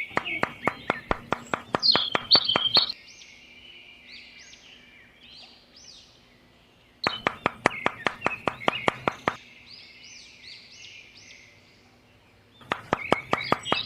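Small birds chirping, with three runs of quick, regular tapping at about four taps a second.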